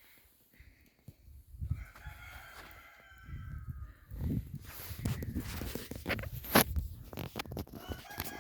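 Rooster crowing: one long call about two seconds in and another starting near the end, over rustling and thumping close to the microphone, with a sharp click in the middle.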